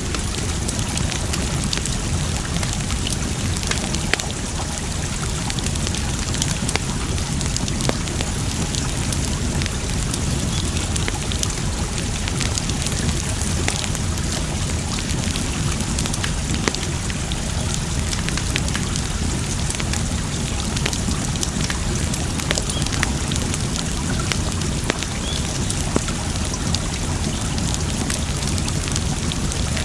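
Wood fire crackling, with irregular sharp pops and snaps over a steady rush of running water.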